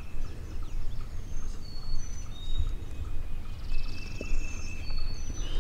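Wild songbirds calling in a series of short, high, clear whistled notes, with a brief buzzy trill about four seconds in. A low steady rumble runs underneath.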